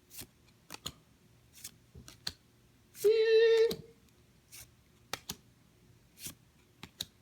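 Scattered short clicks and snaps of Pokémon trading cards and booster packs being handled, with a short, steady, high hum-like tone lasting under a second about three seconds in.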